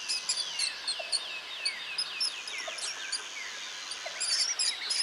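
Mouse squeaking: a rapid series of short, high squeaks, each falling in pitch, about four a second and fading after about three seconds, with scattered sharper high ticks that bunch up near the end.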